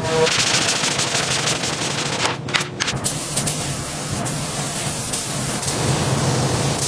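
Paint spray gun hissing steadily as coats go onto the truck's parts.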